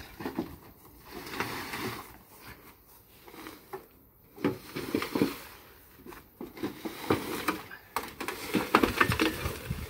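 Irregular knocks, scrapes and rattles from a heavy fireplace being moved by hand, in uneven bursts with short pauses between them.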